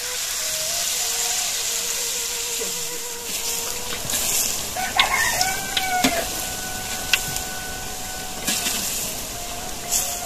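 Peanut peyek batter sizzling in hot oil in an aluminium wok, with a few sharp taps of a metal spatula on the pan. A rooster crows once about five seconds in.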